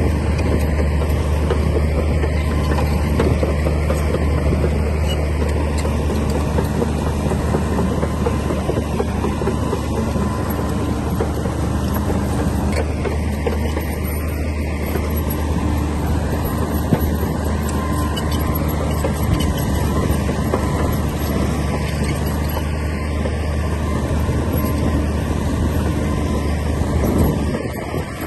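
Komatsu D60P crawler bulldozer's diesel engine running steadily under load with a constant low drone, its level dipping briefly near the end.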